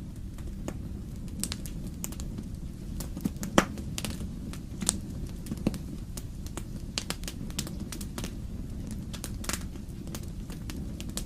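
Wood fire crackling in a fireplace: irregular pops and snaps over a steady low rumble, the sharpest pop about three and a half seconds in.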